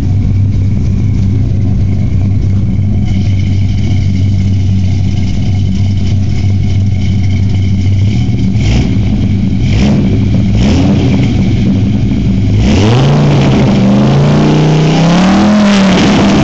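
Dodge Ram SRT-10's 8.3-litre V10 idling through its exhaust with a slight cam lope. About nine seconds in the throttle is blipped three times, then the engine is revved up, held, and let back down near the end.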